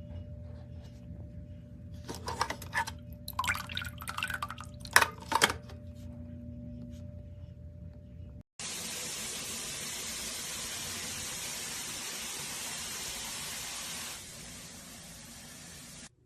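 Running water: a steady hiss that drops in level about two seconds before it stops. Before it there is a low steady hum with a few short clattery knocks.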